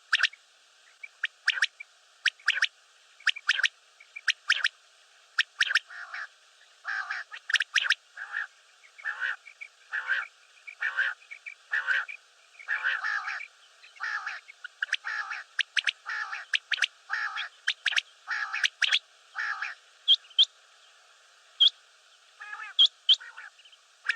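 Common quail calling over and over: short, sharp notes, often in quick pairs, and through the middle a steady series of lower, buzzier notes.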